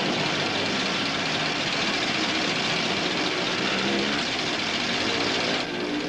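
Car engine running steadily, a dense, even rumble and hiss with no pauses; the upper hiss drops away abruptly near the end.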